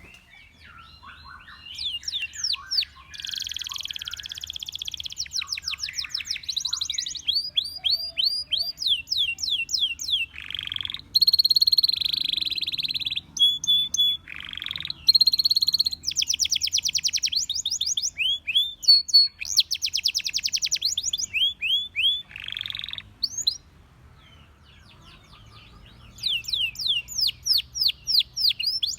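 Canary singing: long phrases of fast trills made of rapidly repeated notes, alternating with quick sweeping whistles and short held notes, with brief gaps between phrases. The song breaks off for a few seconds and then starts again near the end.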